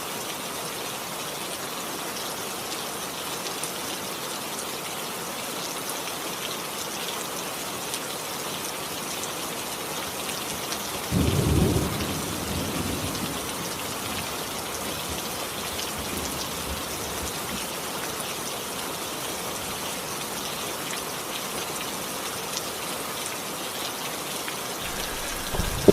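Steady rain falling, a continuous even hiss. About eleven seconds in, a low rumble swells up for a second or so and fades.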